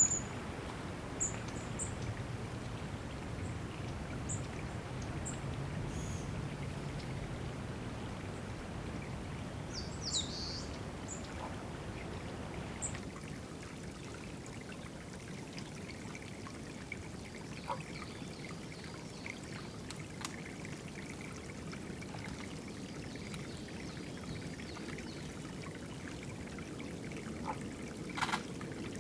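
Water trickling steadily into a small drinking pool. A few short, high bird chirps come in the first half, and one lower falling call about ten seconds in.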